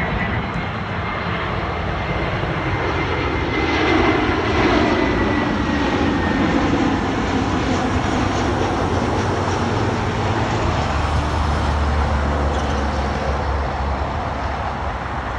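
Airbus A321 jet airliner flying past on its landing, its engines rising to their loudest about four seconds in, with a faint falling whine early on. A heavier low rumble follows from about eleven seconds in.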